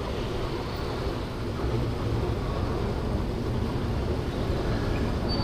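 Steady riding noise from a 50cc scooter: engine and road rumble mixed with wind, getting a little louder about a second and a half in.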